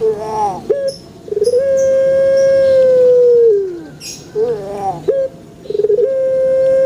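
A puter pelung dove (Barbary dove, Streptopelia risoria) calling. A short wavering coo and a quick stutter lead into a long drawn-out coo held steady for about two seconds and sliding down at the end. The sequence starts again in the second half.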